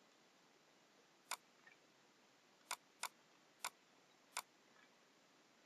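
Computer mouse button clicking, five sharp single clicks spaced unevenly over a few seconds against a quiet background.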